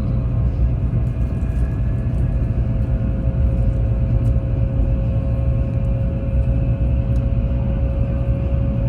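Taiwan High Speed Rail train running, a steady low rumble with a faint steady whine above it.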